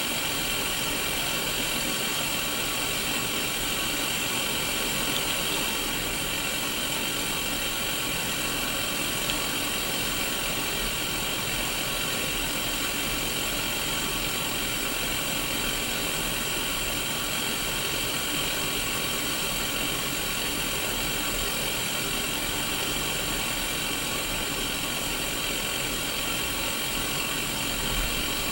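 Steady hiss of white-noise static from a Sony Mega Watchman black-and-white mini CRT television receiving no station.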